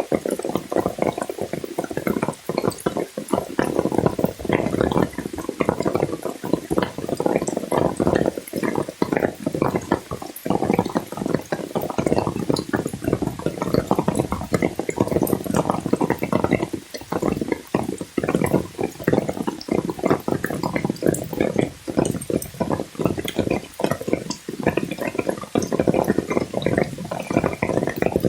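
Water sloshing and splashing continuously, a dense run of irregular close splashes.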